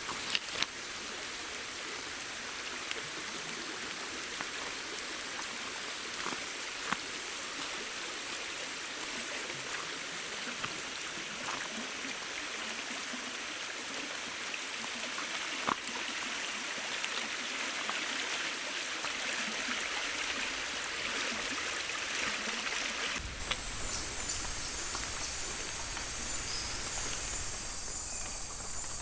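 Steady hiss of falling and running water in the rainforest, with scattered louder drips. About 23 seconds in it changes abruptly to a steady high insect trill over a low rumble.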